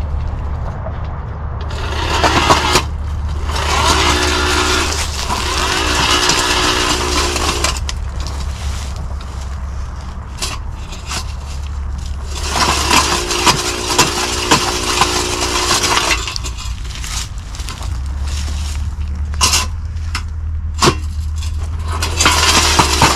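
A power tool running in three bursts of a few seconds each, its motor whining over scraping noise, against a steady low hum.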